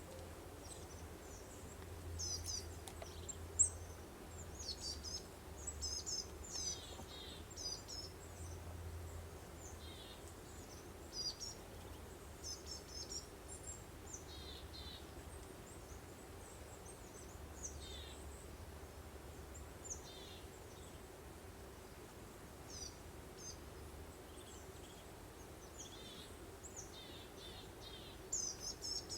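Several songbirds chirping and trilling in quick short phrases, busiest in the first half and again near the end, over a faint steady low hum. A single sharp click about four seconds in.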